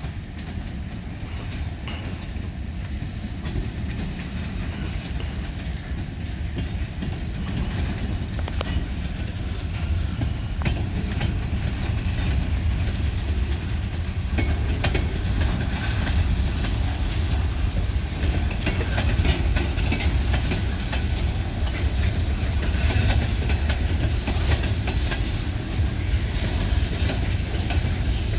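Finger Lakes Railway freight train rolling by on the rails: a heavy low rumble with scattered clicks and clacks of wheels over the track, slowly growing louder.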